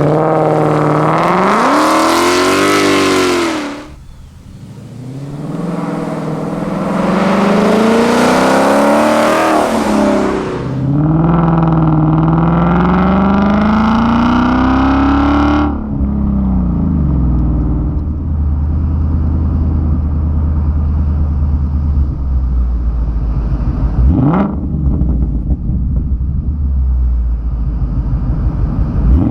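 2016 Ford Mustang GT's 5.0-litre V8 through an X-Force Varex valved cat-back exhaust, revved up and let fall three times, then settling into a steady low idle with two quick throttle blips near the end.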